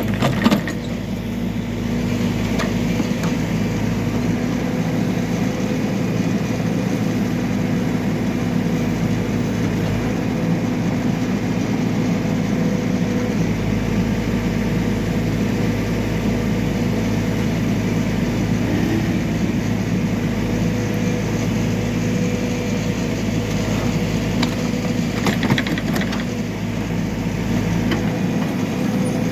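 Backhoe loader's diesel engine running steadily, with a few short metallic knocks about half a second in and again around 25 seconds in.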